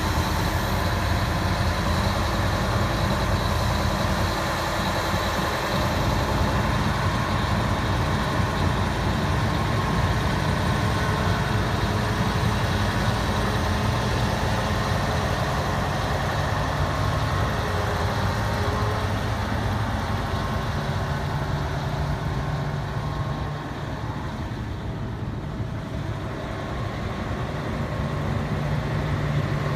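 Heavy diesel engine running steadily, dipping a little in level about two-thirds of the way through and picking up again near the end.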